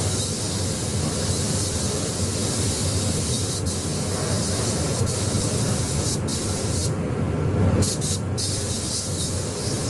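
Paint spray gun hissing steadily as paint is sprayed, with a few short breaks where the trigger is let off about six to eight seconds in, over a low steady rumble.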